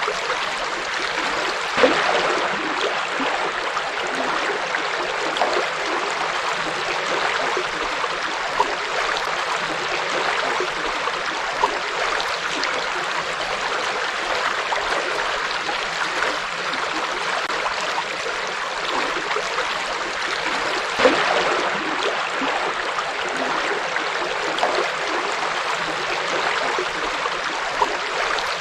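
A forest river flowing steadily, with now and then a brief, slightly louder splash of water.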